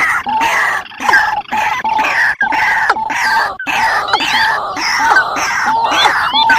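Recorded calls of rails (waterhens), played as a bird-hunting lure: a loud, dense chorus of harsh, repeated notes overlapping one another without pause.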